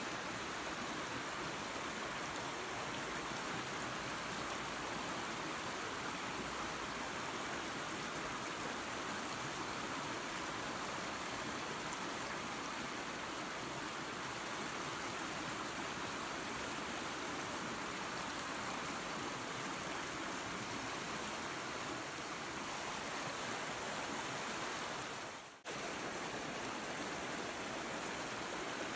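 Steady rushing of a waterfall and creek, running water with no other sounds. About 25 seconds in it fades out for a moment and then comes straight back at full level.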